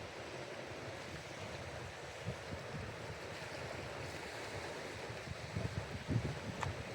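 Steady outdoor wash of wind and water at the shoreline, with wind buffeting the microphone in low rumbling gusts that pick up about five seconds in.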